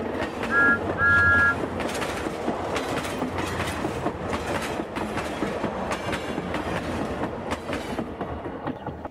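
Train sound effect: a two-note train whistle blown twice near the start, a short toot then a longer one, followed by the steady rumble and clicking of a train running along the rails.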